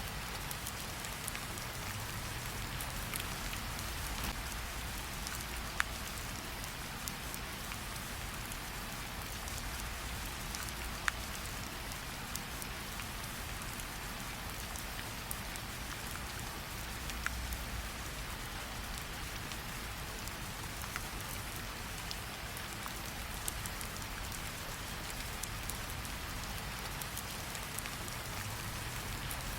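Steady rain falling. A few isolated sharp crackles, from a campfire burning alongside, pop out of it.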